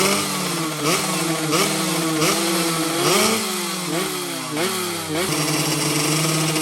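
Two-stroke underbone racing motorcycle engine being blipped: about seven quick throttle revs, each rising sharply and falling back. After about five seconds it settles to a steady idle.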